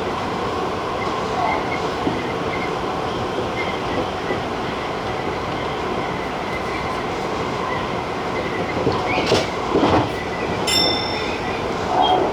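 TJ Liner electric train running at speed on the Tobu Tojo Line: a steady rumble of wheels on rail, with a few sharp knocks and a brief ringing tone late on.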